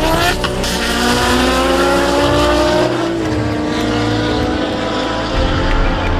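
A drag car's engine running at full throttle as the car accelerates away down the strip, its pitch climbing steadily for about three seconds and then levelling off.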